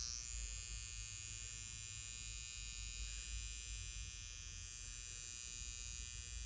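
High-frequency facial machine buzzing steadily while its mushroom-tip electrode is in use on the skin: a constant electrical hum with a high whine over it.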